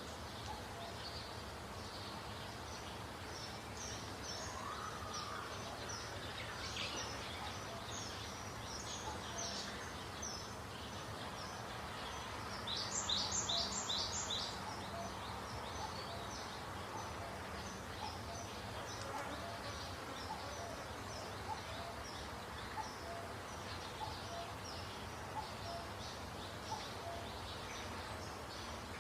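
Birds chirping repeatedly, short high notes again and again over a steady background hiss, with a louder run of about four quick notes about halfway through.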